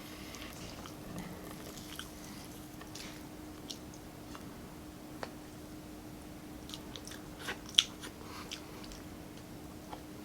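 Close-up eating sounds of a person chewing a meal of grilled chicken and rice: scattered soft smacks and clicks, with a sharper click a little before 8 seconds in. A steady low hum runs underneath.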